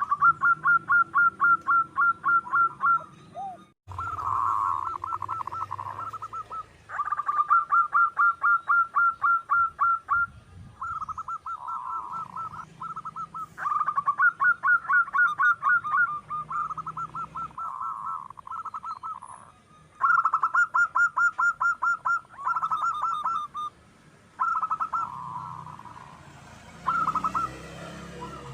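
Zebra dove (perkutut) calling: repeated bursts of rapid staccato cooing notes, about seven a second, each burst lasting two to three seconds. Softer, more run-together notes fill the short gaps between bursts.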